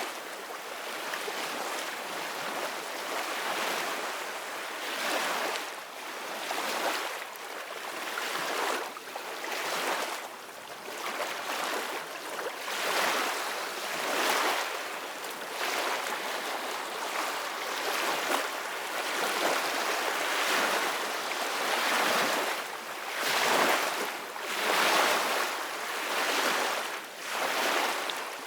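Sea waves washing and breaking in a continuous hiss, swelling and ebbing every second or two.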